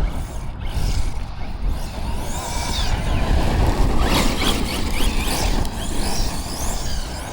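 Arrma Notorious V5 EXB RC monster truck driven at full throttle, its Surpass 1780 brushless motor giving a high whine that rises and falls several times as the power goes on and off. Under it, a heavy low rumble of wind buffeting the microphone and tyres tearing over dirt.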